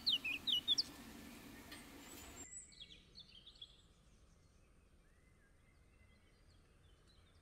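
Small birds chirping rapidly and brightly for about the first second, then fading. The background hiss cuts off suddenly about two and a half seconds in, leaving a few faint chirps and then near quiet.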